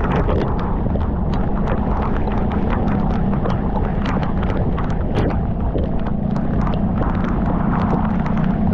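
Motorcycle running steadily under heavy wind rumble, its engine a constant hum, with irregular sharp ticks of raindrops striking near the microphone several times a second.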